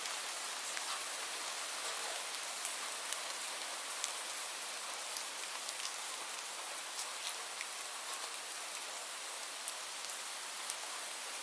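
Steady rain falling, an even hiss with scattered distinct drop ticks, and no thunder.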